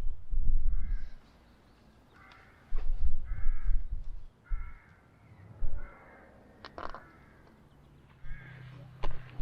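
A crow cawing: about five harsh calls roughly a second apart, stopping about six seconds in. Gusts of wind buffet the microphone with a low rumble, loudest near the start and in the middle.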